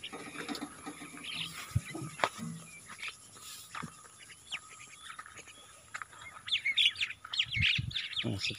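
Small birds chirping intermittently, breaking into a quick run of many chirps near the end.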